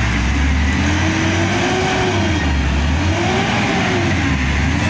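A vehicle engine running with a steady low drone, its pitch gliding up and down again about every second and a half, as if revving repeatedly.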